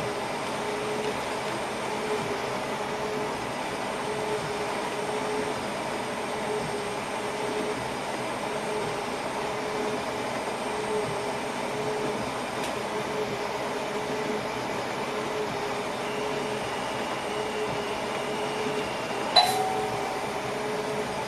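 Inside a train driver's cab while the train is running: a steady hum and rumble with a faint tone pulsing about once a second. About nineteen seconds in there is a single sharp click with a short ring.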